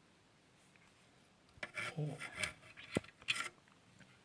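A small screw held in needle-nose pliers scraping and clicking against the electric iron's metal parts as it is set into its hole. A few short scrapes begin about a second and a half in, with one sharp click near three seconds.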